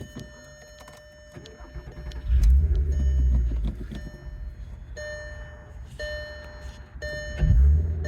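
2004 VW R32's 3.2-litre VR6 with Borla cat-back exhaust starting about two seconds in with a loud rev flare, then settling to idle, and revved once more near the end. A car's warning chime beeps on and off about once a second throughout.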